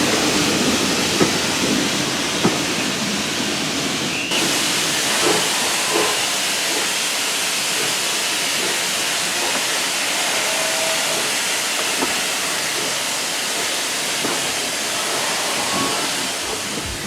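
Steam locomotive letting off steam, a steady loud hiss that changes abruptly about four seconds in.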